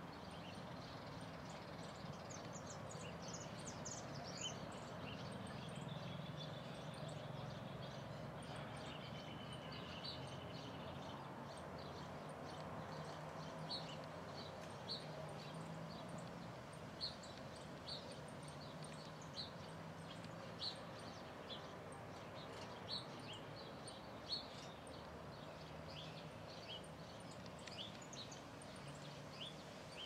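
Faint outdoor ambience of small birds chirping: short high chirps repeat about once a second through the second half, over a low steady background hum.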